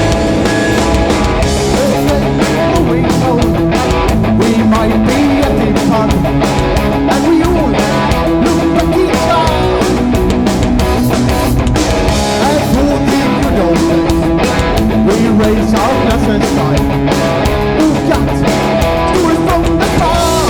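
Live punk rock band playing loud and fast: distorted electric guitars, bass and drum kit, with singing at times.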